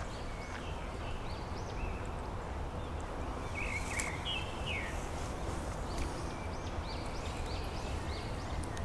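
Songbirds chirping over and over in short, arched high notes, with a louder call about four seconds in, above a steady low rumble of wind or flowing water.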